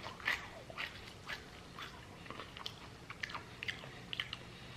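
Crunching and chewing of freeze-dried red seedless grapes: a run of short crisp crunches, loudest in the first second and fading as they are chewed.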